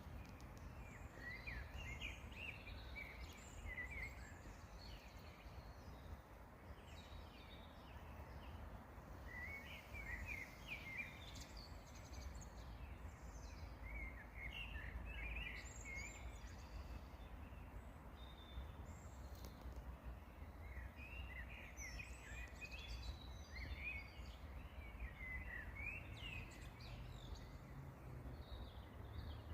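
Songbirds singing in short bursts of quick chirping notes every few seconds, over a steady low rumble.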